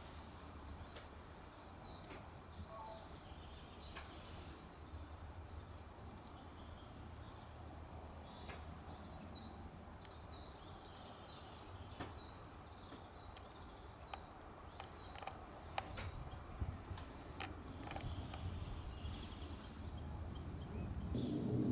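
Small birds chirping and singing: many short, high notes, with a run of quickly repeated notes in the middle, over a steady low rumble.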